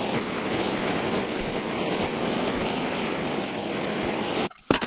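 Gas torch flame running steadily while heating shrink tubing over the end of a clutch lever. It cuts off abruptly near the end, followed by a couple of sharp clicks.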